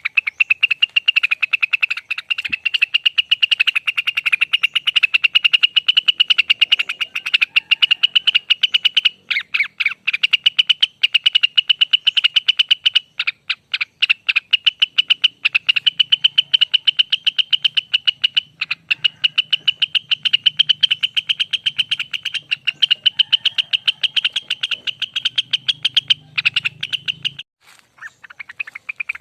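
Cucak wilis (rengganis), a leafbird, singing a long rapid trill of fast repeated high notes, the 'ropel panjang' song. The trill pauses briefly a few times and breaks off near the end before resuming.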